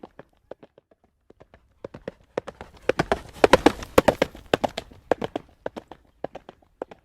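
Horse hooves clip-clopping at a trot on a road, the hoofbeats growing louder and closer together about halfway through, then thinning out again.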